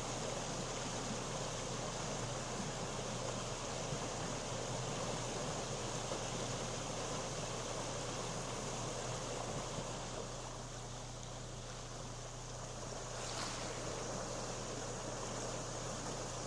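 Steady rush of fast-moving floodwater in a creek in flash flood, easing slightly for a few seconds about ten seconds in, with one brief click a few seconds before the end.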